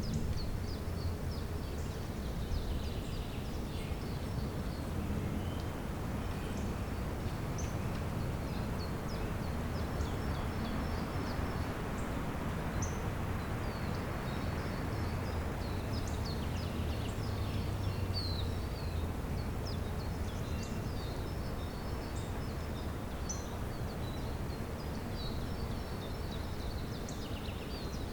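Spring woodland ambience: many small birds chirping and twittering continuously over a steady low rumble.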